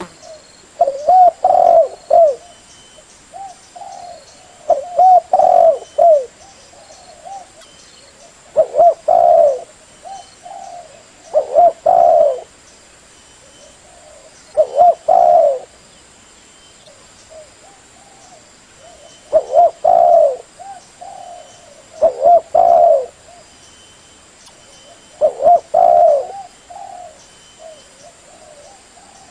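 Spotted dove (tekukur) cooing: short phrases of a few low coos, repeated every three to four seconds.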